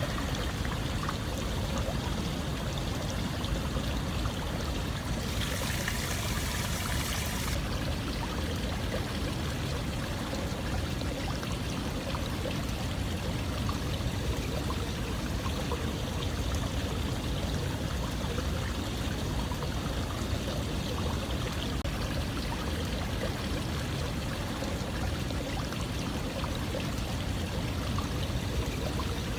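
Running water flowing steadily, a continuous even rush. About six seconds in, a brighter hiss rides on top for roughly two seconds.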